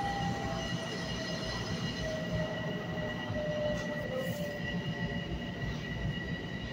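Long Island Rail Road electric train running at speed through a tunnel, heard from inside the car: a steady rumble of wheels on rail with a thin, steady high whine. A fainter wavering squeal comes and goes in the middle.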